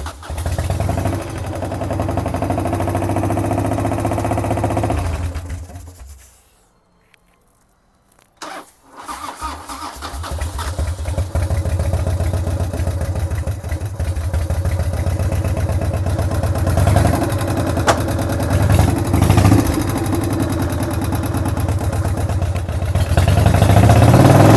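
Custom Harley-Davidson FXR's carburetted V-twin engine running with throttle blips, then dying out about five seconds in. After a few seconds of quiet it is started again and runs, revving up harder near the end.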